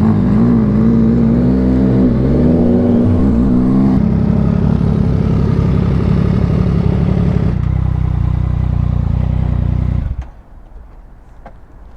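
Motorcycle engine running at low speed, its pitch rising and falling for the first few seconds, then settling to a steady idle before being switched off about ten seconds in.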